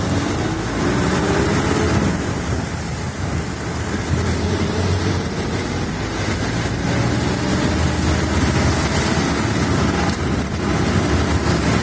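Steady vehicle road and engine noise with a heavy low rumble, heard in the rain. A faint engine pitch rises about a second in and again midway.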